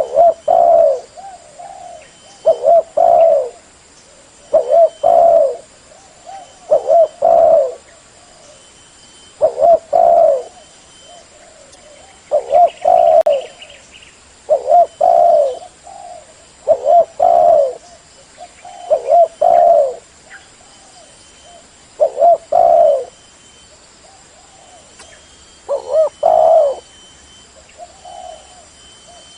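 Spotted dove (tekukur) cooing in loud, full calls. About eleven phrases of low coo notes come roughly every two to three seconds, with a longer pause before the last one.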